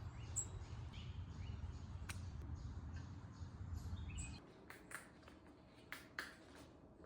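Small birds chirping faintly in short high calls over a low rumble; the rumble stops about four seconds in, and a few light clicks follow.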